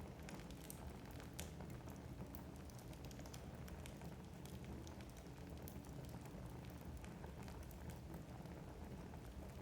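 Wood fire burning in a fireplace: a low steady rumble of the flames with frequent small, sharp crackles and pops of the burning logs.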